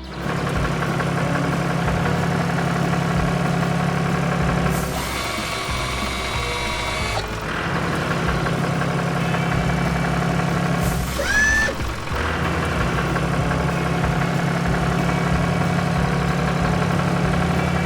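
Cartoon farm-vehicle engine sound effect running steadily over background music, dropping out twice for a couple of seconds. A short rising whistle-like sound effect about 11 seconds in.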